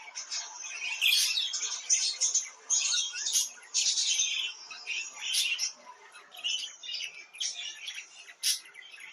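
Budgerigars chirping and warbling in a continuous chatter of rapid, high chirps with sharp squeaks scattered through it.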